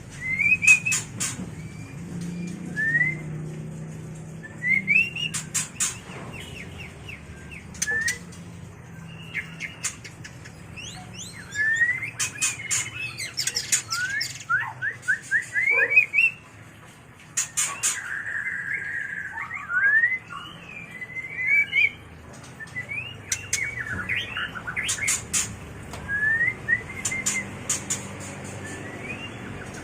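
White-rumped shama singing its mating song: phrases of quick rising and falling whistles, broken by short clusters of very high, sharp notes, with brief pauses between phrases.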